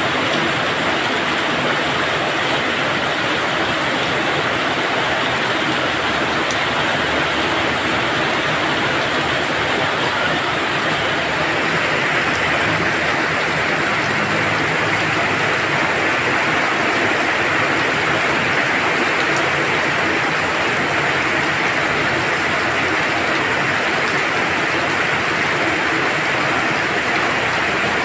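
Heavy rain pouring steadily onto a paved courtyard and its standing water: a dense, even hiss of countless drops splashing.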